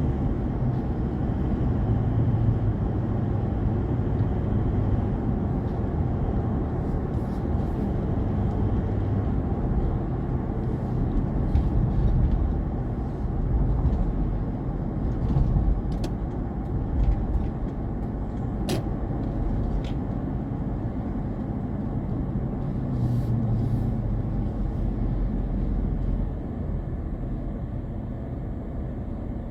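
Car driving along the road at speed: a steady low rumble of road and engine noise, with a few faint clicks in the middle, easing off slightly near the end.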